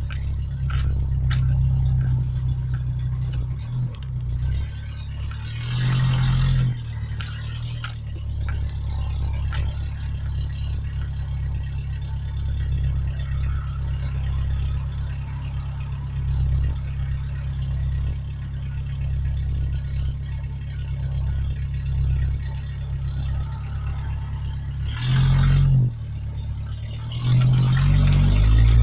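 1991 Ford Ranger pickup's engine running steadily, with short louder stretches about six seconds in and again near the end, where the revs begin to climb.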